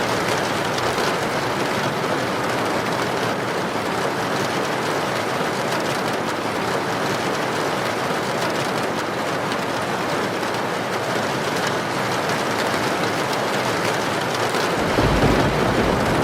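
Heavy rain falling steadily in a rainstorm with wind. A low rumble swells near the end.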